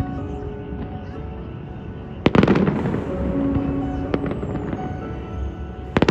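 Fireworks going off over background music: a loud bang a little over two seconds in, followed by crackling, and another bang near the end.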